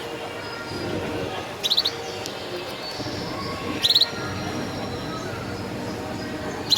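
Gloster canaries chirping: short, rapid high chirps of four or five notes each, repeated about every two seconds over a low murmur of background voices.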